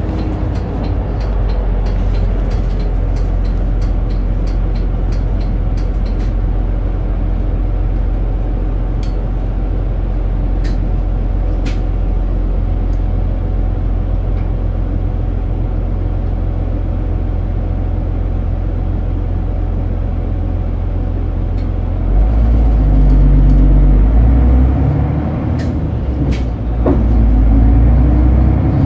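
Inside a city route bus while it is under way: the engine drones steadily with road noise, then grows louder with rising pitch about two-thirds of the way through as the bus pulls away or accelerates, eases off briefly and picks up again near the end. A few sharp clicks are scattered through.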